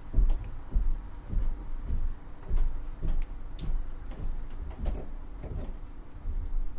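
Kitchen sounds of soup being made: soft, low thuds repeating roughly every half second, with a few faint sharp clicks among them.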